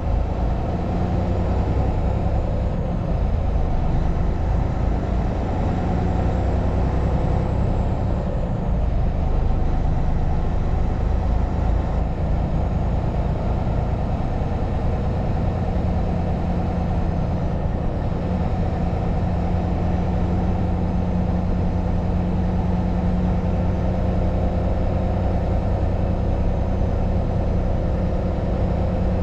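Truck engine and road noise while driving: a steady low drone with a faint engine hum that holds level throughout.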